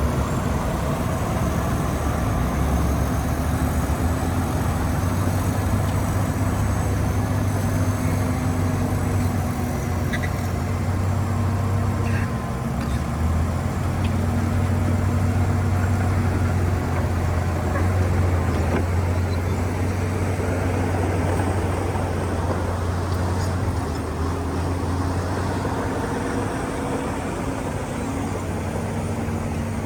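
Heavy diesel engine of earthmoving machinery running with a steady low drone, its pitch shifting slightly a few times.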